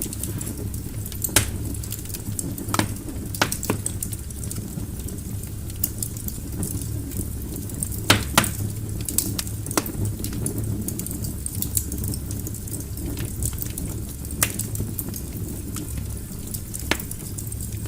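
Wood fire burning in a fireplace: steady low rumble and hiss of the flames with irregular sharp crackles and pops from the logs, a few louder pops scattered through.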